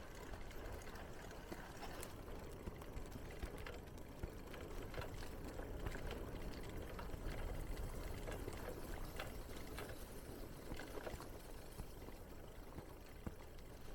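Bicycle riding: tyres rolling over a path with many small crackles, and a low rumble of wind on the microphone.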